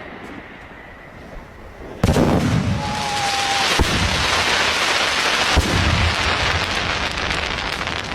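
Fireworks: about two seconds in, a loud bang from a bursting shell, followed by continuous crackling, with further bangs near four and five and a half seconds and a brief whistle about three seconds in.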